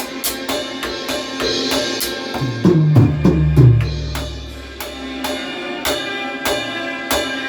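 Drum kit played along to orchestral music: snare and cymbal hits about twice a second, with heavier, deeper drum strokes around three seconds in.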